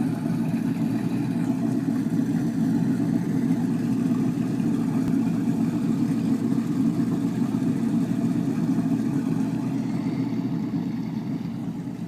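Boat engine running steadily at low speed, getting a little quieter near the end.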